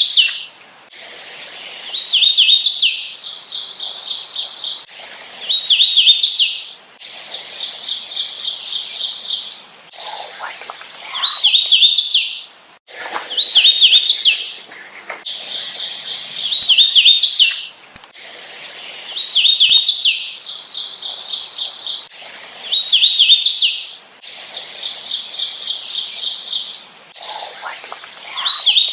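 Hooded warbler singing, a song about every two to three seconds. Some songs are runs of slurred whistles ending in a sharp rising flourish; others are faster runs of even, repeated notes.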